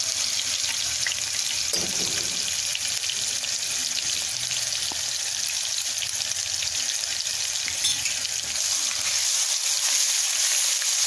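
Ginger-garlic paste frying in hot butter and oil in a metal pan: a steady sizzle, with a spatula stirring it through the pan.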